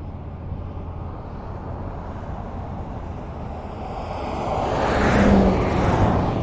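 Highway traffic with a steady road rumble. One vehicle passes close, growing louder from about four seconds in, peaking a second later and fading away near the end.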